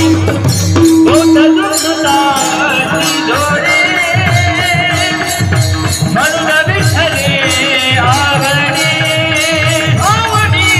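Marathi kirtan devotional singing: a male voice singing an ornamented, wavering melody over mridang drum strokes, with regular strikes of small hand cymbals and a steady held tone underneath.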